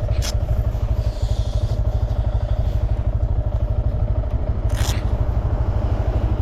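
Motorcycle engine idling with a steady, even low pulse, the bike stopped by the roadside. Two short scraping clicks cut through it, one right at the start and one about five seconds in.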